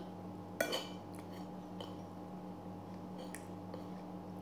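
Quiet chewing of food, with a sharper click about half a second in and a few faint clicks later from a spoon and fork on a ceramic plate, over a steady low electrical hum.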